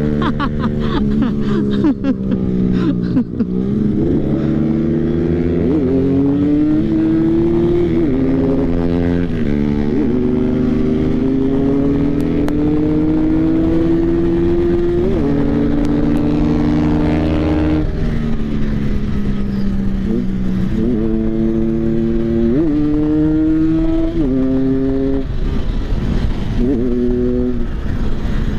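Motorcycle engine under hard acceleration at speed. Its pitch climbs through each gear and drops sharply at every upshift, several times over, with wind noise underneath.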